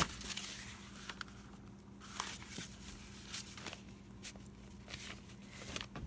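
Paper being handled: scattered soft rustles and light taps from the pages of a big ledger, over a faint steady hum.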